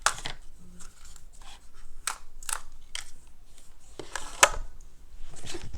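Drone box and parts being handled: a series of short clicks and rustles of plastic and cardboard packaging, the loudest about four and a half seconds in.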